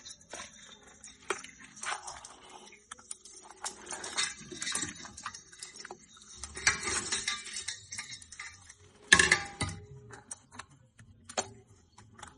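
Irregular clicks, taps and scrapes of crabs and shells against a metal pot, with a louder clatter about nine seconds in.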